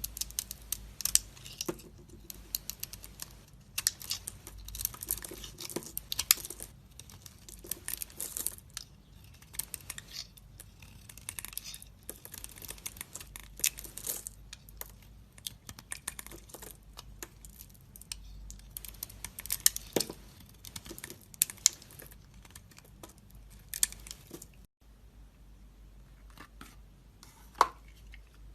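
Knife blade cutting and carving into dry soap, giving dense crackling and scraping crunches. After a sudden break about 25 s in, the cuts come sparser.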